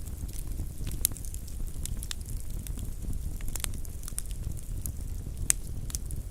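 Wood fire crackling: irregular sharp pops and snaps over a steady low rumble of the burning fire, with one louder pop about a second in and another late on.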